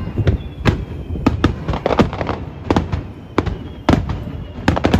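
Fireworks shells bursting in quick succession: many sharp bangs, about three a second, each followed by an echoing tail.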